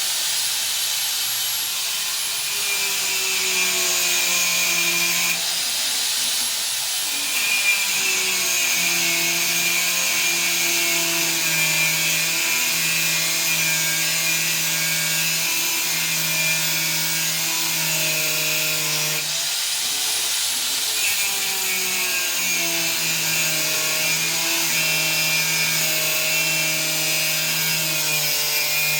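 Angle grinder cutting steel, the motor's whine running steadily under load with a bright hiss, its note dropping away and coming back twice.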